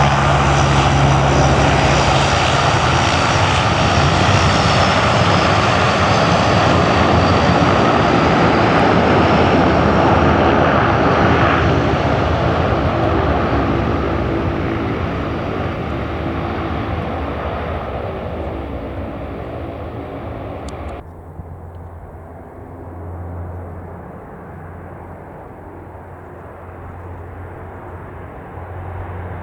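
Engines of a large four-engine Antonov cargo aircraft running loud and fading slowly as it moves away. About two-thirds of the way through, the sound cuts off abruptly to a quieter, duller engine sound.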